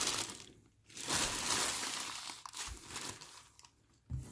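Plastic bags crinkling as they are handled and opened: a short rustle at the start, then a longer stretch of crinkling from about a second in that dies away.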